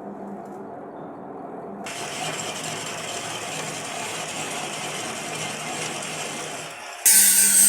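Workshop machinery running steadily with a low hum. Near the end a much louder noise with a high whine cuts in abruptly.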